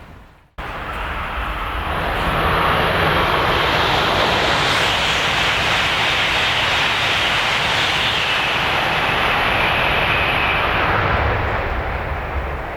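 Tohoku Shinkansen train passing through a station at high speed: a loud rush of air and rolling noise that builds about two seconds in, holds steady, then eases off near the end.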